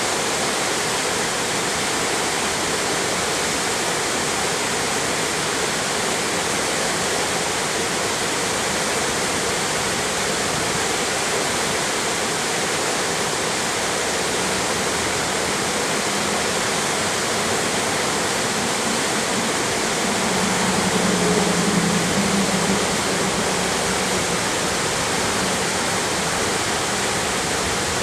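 Rushing water of a mountain stream and waterfall, steady and unbroken. A low hum swells briefly about twenty seconds in.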